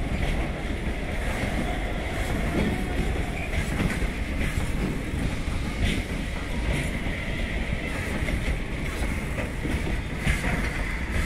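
Loaded covered freight wagons (Indian Railways BCNA type) rolling past, a steady rumble with the steel wheels clacking over rail joints now and then. A faint steady high squeal runs under it.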